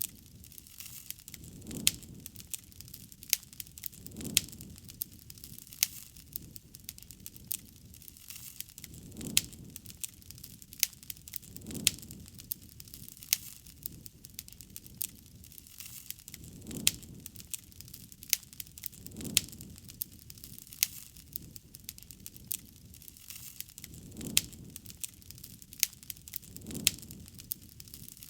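Wood campfire crackling, with frequent sharp pops and snaps over a faint hiss, and a soft low swell every two to three seconds.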